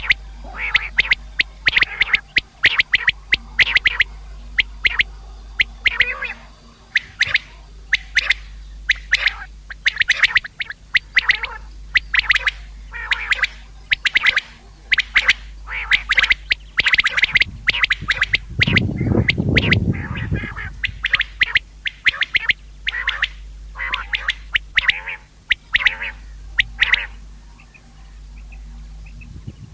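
Common quail calling over and over: short, sharp notes in quick runs, the bird's call as used to lure quail. A steady low hum lies underneath, and a brief low rumble comes about two-thirds of the way in.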